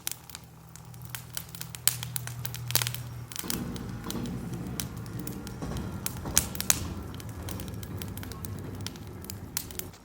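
Wood fire in a fire pit crackling, with many sharp pops, over a low steady hum that grows fuller about three and a half seconds in.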